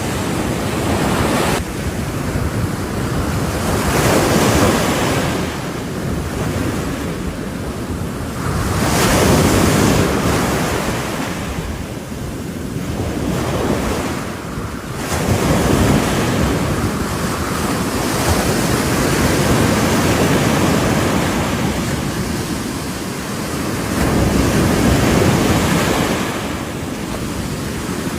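Ocean waves breaking on the shore, each surge swelling and washing back every few seconds, with wind rumbling on the microphone.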